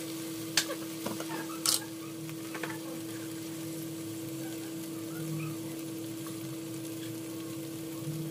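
Onion-tomato masala frying gently in oil in a steel pan: a low, steady sizzle over a constant hum, with a couple of sharp clicks about half a second and a second and a half in.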